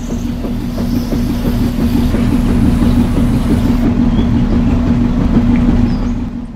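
Small electric motor of a homemade toy concrete mixer running, with a steady buzzing hum and a dense rattle.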